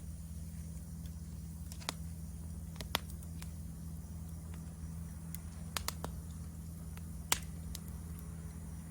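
Wood fire crackling, with a handful of sharp pops, the loudest about seven seconds in, over a steady high trill of insects.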